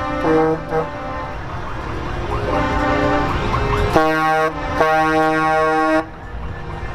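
Truck air horns sounding over background music: a short blast about four seconds in, then a longer one right after it that cuts off suddenly.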